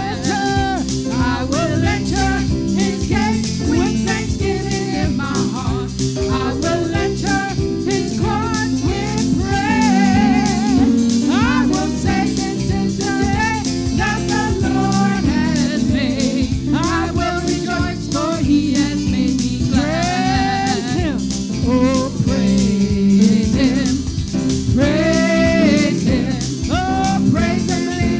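Gospel worship song: a singing voice with sustained, wavering notes over a full instrumental backing with a steady beat.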